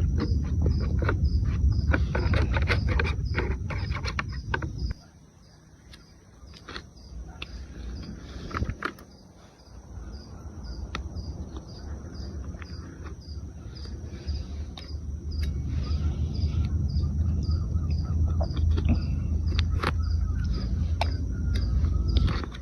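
Crickets chirping steadily, about two chirps a second, over a low rumble that drops away about five seconds in and slowly returns, with scattered sharp clicks and knocks.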